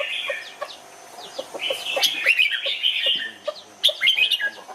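Red-whiskered bulbuls singing: quick, bubbly whistled phrases that slide up and down, coming in two bursts with a lull around the one-second mark. Beneath them runs a steady series of short low notes, about three a second.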